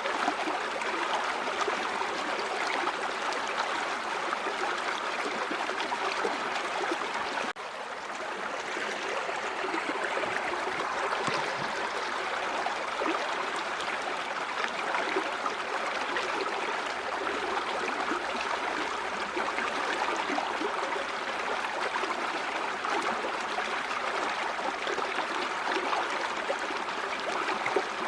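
River water flowing steadily, an even rush with no pauses. The level dips sharply about a quarter of the way through and comes back within a few seconds.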